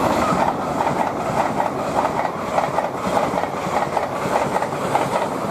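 LNER Class 800 Azuma train passing, a steady rush with a rapid, even clatter of wheels over the rails.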